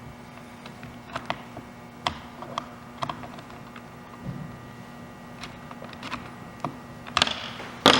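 Allen key unscrewing a bolt from a pole chainsaw's head: scattered light clicks and taps of metal on metal and plastic, a few a second. Louder handling noise comes in near the end.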